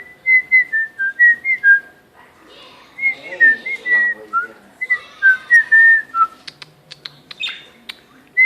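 Person whistling a short tune to a pet budgie in three bursts of stepped notes, with some faint scratchy chatter under the whistling and a few sharp clicks near the end.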